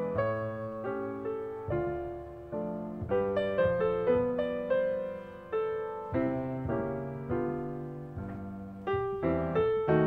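Soft background piano music: slow notes and chords, each struck and left to fade.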